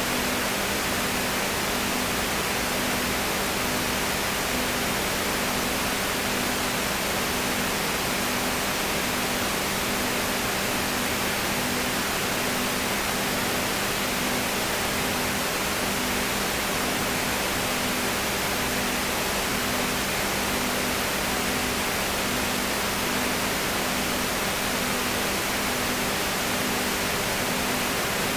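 Steady, even hiss with a faint low hum underneath that pulses a little over once a second.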